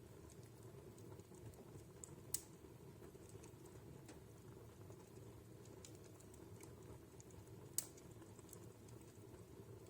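Wood fire in a fireplace crackling softly: scattered small ticks, with two sharper pops about two and a half and eight seconds in, over a faint steady low background.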